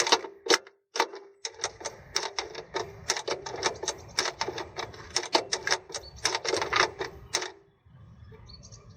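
Toyota MMT multimode gearbox's electric actuators cycling through the learning (initialization) routine after ignition-on: rapid, irregular clicking over a faint motor hum, stopping about seven and a half seconds in, when the gearbox has learned its positions.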